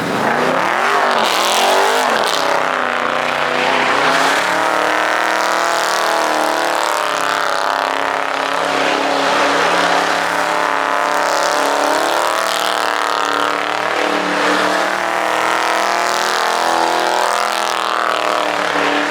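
Car engine held at high, wavering revs with tyres squealing over it: a car spinning its tyres in a donut or burnout.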